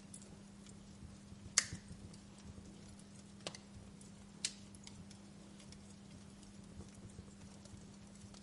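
Fire crackling: scattered sharp pops and snaps over a faint steady hiss, the loudest pop about one and a half seconds in, with two more around three and a half and four and a half seconds. A low steady hum runs underneath.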